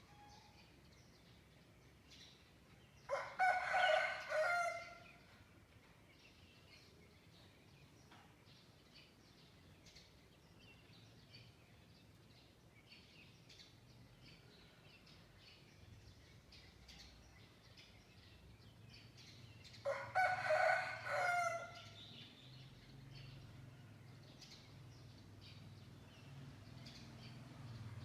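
A rooster crows twice, about seventeen seconds apart, each crow about two seconds long, over faint chirping of small birds. A low hum builds toward the end.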